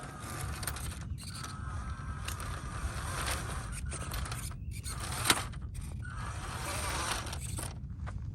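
Small 370 brushed electric motor and metal gearbox of a 1/16 WPL C24-1 RC crawler whining as it crawls, the pitch rising and falling with the throttle. A sharp click about five seconds in.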